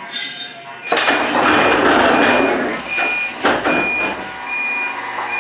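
Electric train stopped at a station: a loud rush of compressed air from about one to three seconds in, with a knock or two after it, over an electronic beep that repeats a little more than once a second.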